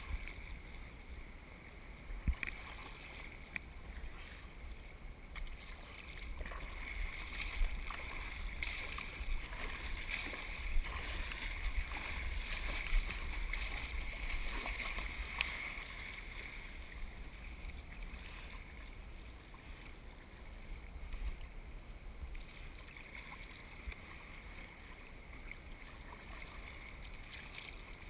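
Water washing and splashing around a surf kayak, with wind rumbling on the microphone and scattered sharp splashes or knocks. The water noise grows louder through the middle and eases off toward the end.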